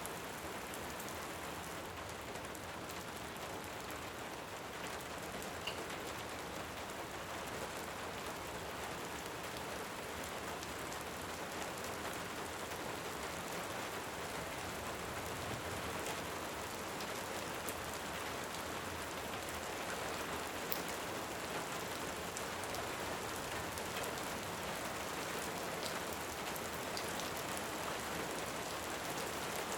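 Steady, dense rainfall, with a few sharp pops from a crackling wood fire.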